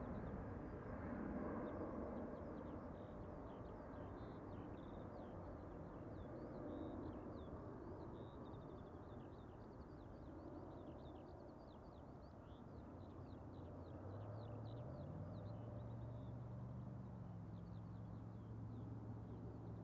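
Distant jet airliner rumble slowly fading away as it departs, with small birds chirping throughout. A low steady hum comes in about two-thirds of the way through.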